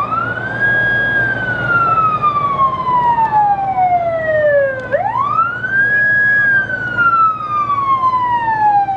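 A siren wailing twice: each cycle climbs quickly to a high pitch, holds briefly, then falls slowly for about four seconds, and the second cycle starts about five seconds in.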